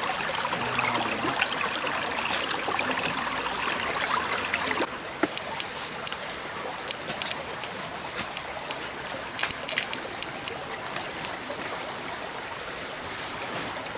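Stream water running and trickling. About five seconds in it cuts to a quieter stretch of flowing water with scattered sharp ticks.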